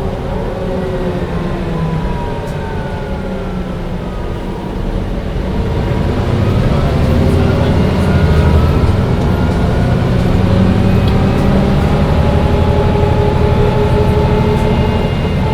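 Mercedes-Benz O405 N1 low-floor city bus heard from on board, its diesel engine and drivetrain running. A whine falls in pitch over the first few seconds. About six seconds in, the engine grows louder as the bus gathers speed, and a rising whine follows near the end.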